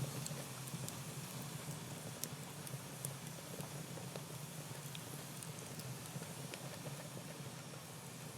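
Wood fire in a fireplace burning with a steady hiss and scattered sharp crackles and pops, over a steady low hum.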